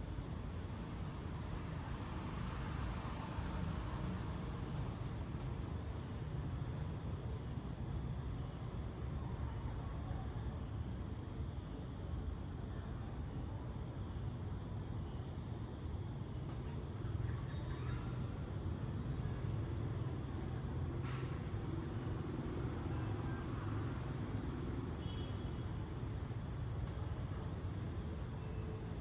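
Crickets trilling steadily, a high, evenly pulsing chirp that never stops, over a steady low rumble.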